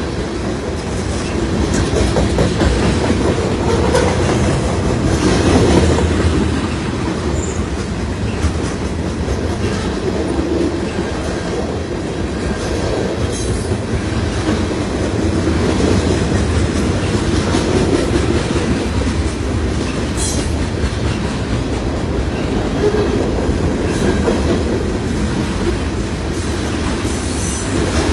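Canadian National freight train's cars rolling past, a steady loud rumble with wheels clicking over rail joints and a few brief high wheel squeals.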